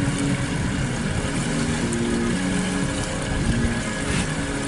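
Pontoon boat under way: the outboard motor runs steadily beneath a constant rush of wind and water noise.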